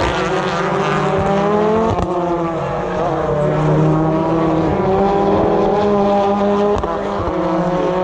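British Touring Cars' turbocharged four-cylinder engines running hard as several cars go past together, their overlapping notes rising and falling.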